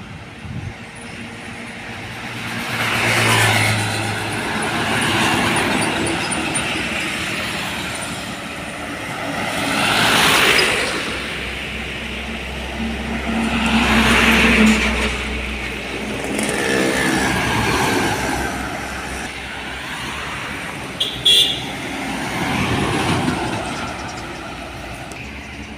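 Heavy trucks and other vehicles passing one after another, each swelling up and fading as it goes by. A brief high-pitched toot sounds about three-quarters of the way through.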